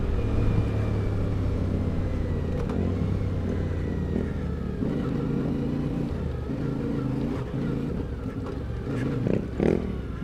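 CFMOTO 450MT's parallel-twin engine running under way, its pitch shifting a little with the throttle, with a few short louder sounds near the end.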